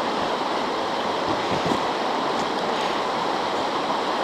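Fast-running river current rushing steadily.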